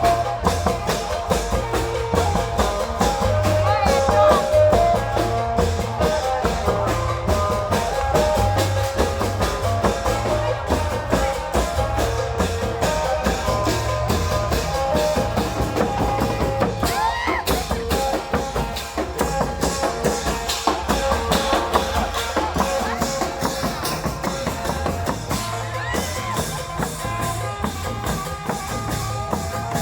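Isan klong yao long-drum ensemble playing festival music: a fast, steady drum beat with a pulsing low drum under held melodic notes.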